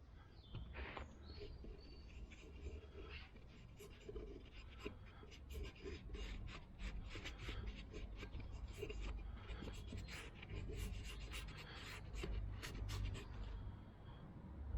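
Irregular scratchy rubbing strokes with small ticks: silver paste being worked onto a metal part by hand.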